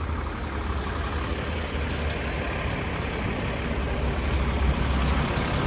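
Diesel truck engine idling: a steady low rumble.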